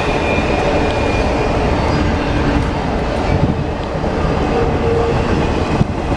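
Train rolling past close by: a steady rumble of wheels on the rails, with a faint high squeal in the first second.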